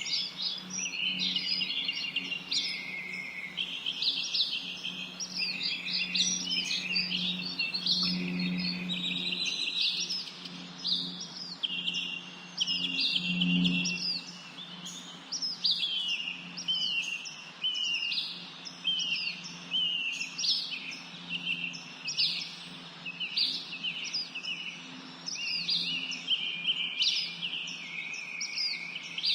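Many birds calling and singing at once: a dense, unbroken chorus of overlapping chirps and quick whistles. Beneath it runs a faint, steady low hum.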